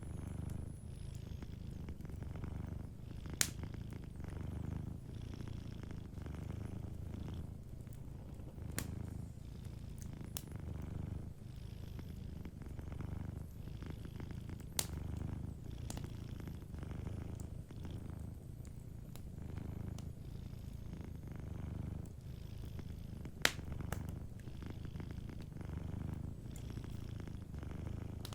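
Domestic cat purring steadily, the low rumble swelling and easing with each breath, with a few sharp pops from a crackling wood fire.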